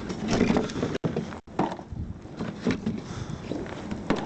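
Burning wood crackling and popping in a metal incinerator bin, with short irregular cracks. The sound cuts out twice, briefly, about a second in.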